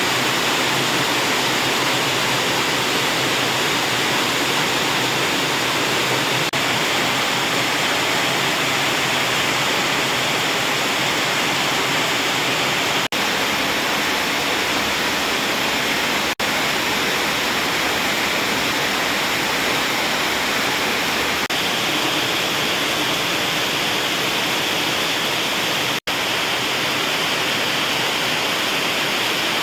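Heavy rain pouring steadily, a loud, even hiss, with a few momentary dropouts in the sound.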